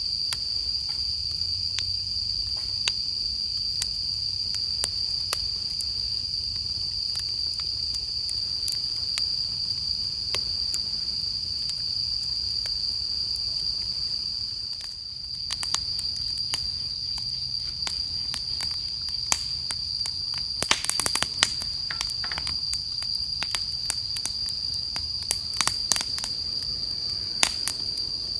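Wood campfire crackling with scattered sharp pops, and a quick flurry of pops about twenty-one seconds in. Insects sing throughout in one steady, high-pitched trill.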